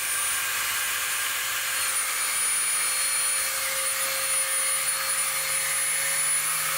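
Electric grinder running steadily at full speed, a high whine over a loud hiss, used to strip paint off the steel around a bad weld before re-welding.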